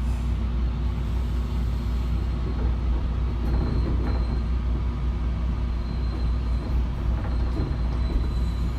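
A train's steady low rumble, with no clear change in pitch or level.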